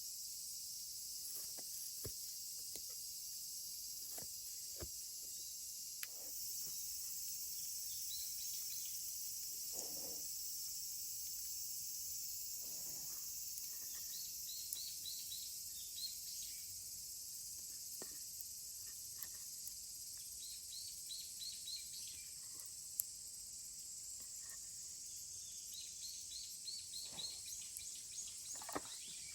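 Summer insects keep up a steady high-pitched trill, with a bird calling in short runs of four or five quick chirps a few times. Scattered sharp clicks and knocks come through, one louder knock about two-thirds of the way in.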